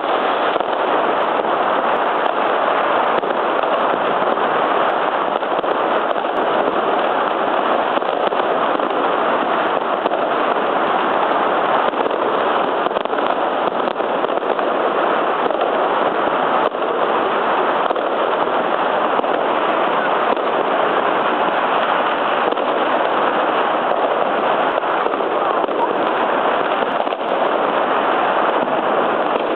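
Many fireworks and firecrackers going off all around at once, a dense, unbroken crackle and banging so thick that the separate reports blur into one steady noise.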